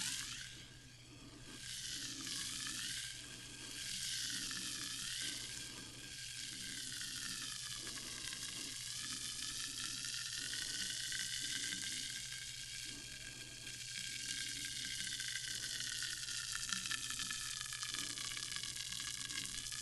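Sparkling water fizzing: a dense crackle of countless tiny bubbles bursting. It swells and eases a few times at first, then settles into a steady fizz.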